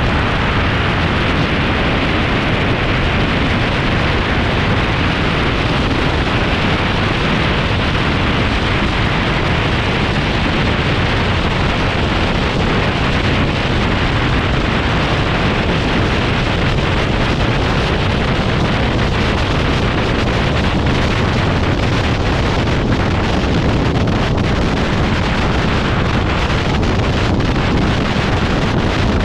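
Steady, loud wind noise buffeting the microphone, with no clear engine note or distinct events standing out.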